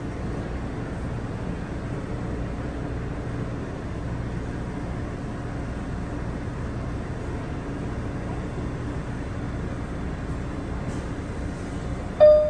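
Steady low rumble and hum of an NYC subway train standing at the platform, held in the station. Near the end a short, loud tone sounds.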